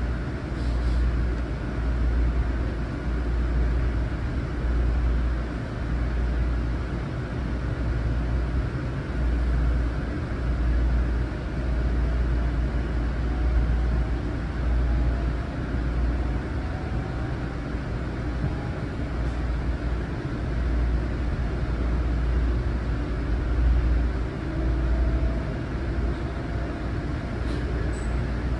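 Long Island Rail Road M9 electric train running between stations, heard from inside the passenger car: a steady low rumble of wheels on rail. A faint whine rises slowly in pitch in the middle.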